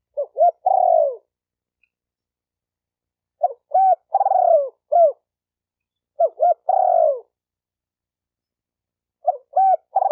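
Spotted dove cooing: each phrase is two short coos followed by a long falling coo, sometimes with a short final note, repeated about every three seconds with silence between. Three full phrases, with a fourth starting near the end.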